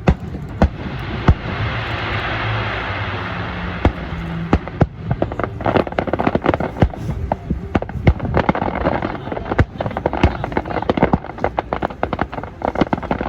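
Fireworks going off: a hiss with scattered bangs for the first few seconds, then a rapid, dense run of bangs and crackles.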